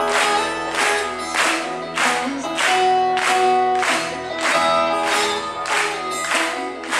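Live folk-rock band playing with no vocals yet: strummed acoustic strings on a steady beat, about two strokes a second, under sustained melody notes.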